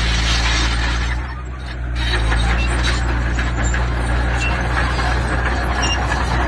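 Diesel engine of a heavy construction machine running steadily, with a dense clatter and scraping of stone and steel over it; the noise drops briefly about a second in, then picks up again.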